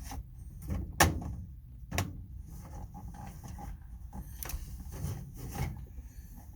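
Tool box drawer being slid and knocked on its rails: a sharp knock about a second in, another a second later, then lighter clunks and rubbing.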